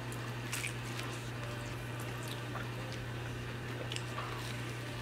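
A man biting and chewing a slice of pizza: faint chewing with a few short crisp crackles from the crust, over a steady low hum.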